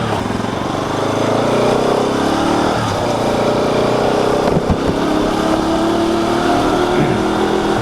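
Motor vehicle engine running as the vehicle sets off, its pitch rising a little in the first couple of seconds and then holding steady.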